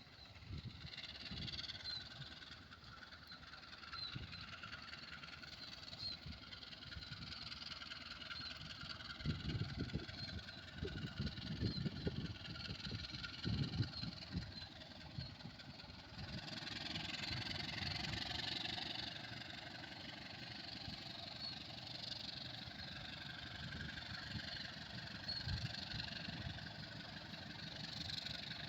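A vehicle engine running steadily, with heavier low rumbling from about nine to fourteen seconds in.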